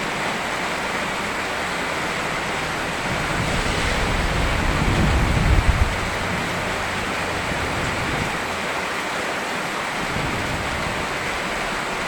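Steady rain falling with an even hiss. A low rumble swells and fades about five seconds in.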